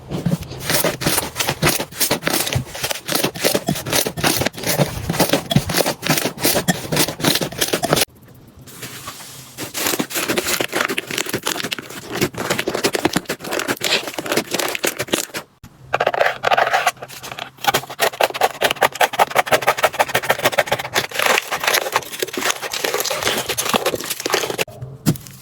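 Slime being squished and pressed by hands, giving dense, rapid crackling and popping clicks. It breaks off briefly about eight seconds in and again near sixteen seconds.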